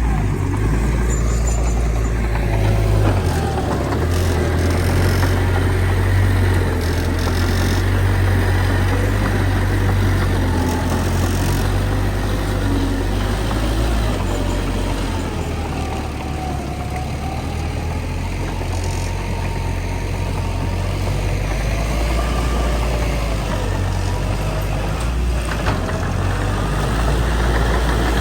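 Bulldozer's heavy diesel engine running steadily under working load, its low drone easing slightly about halfway through, with faint whines that rise and fall above it.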